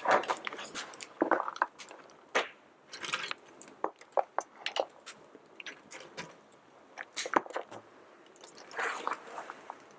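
Tortilla chips crackling and crunching as they are handled and layered by hand into a cast iron skillet, in irregular bursts of brittle clicks and rustles.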